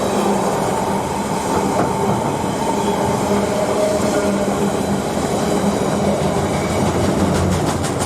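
A train running past at speed: a steady, loud rumble of wheels on rail with a few steady tones in it. From about seven seconds in, a quick, even run of wheel clicks over the rail joints comes in.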